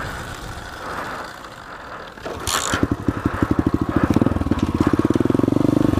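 SSR 125 pit bike's single-cylinder four-stroke engine being restarted while the bike rolls: rolling and wind noise for about two and a half seconds, then the engine catches and fires with an even beat that quickens and grows louder.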